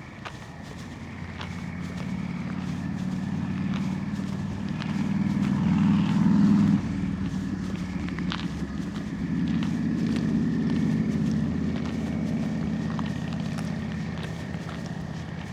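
A motor vehicle passing close by, its low engine and road noise swelling up, cutting off sharply, then swelling again and fading away, with footsteps on pavement beneath it.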